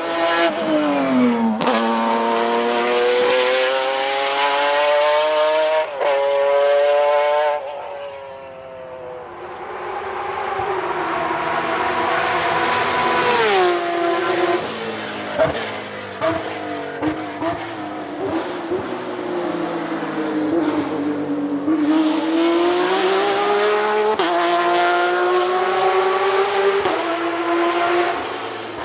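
Nissan 370Z's 3.7-litre V6 pulling hard through the gears. The revs climb steadily and drop sharply at each gear change, with a brief lift off the throttle about eight seconds in.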